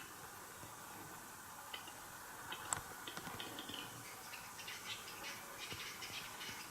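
Western capercaillie cock singing at the lek: single dry clicks that come faster and faster, the loudest about two and a half seconds in, running into a dense scraping, grinding phrase over the last few seconds.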